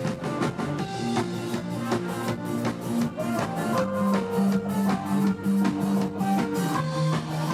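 Live band music with electric guitar and a drum kit keeping a steady beat, played without singing.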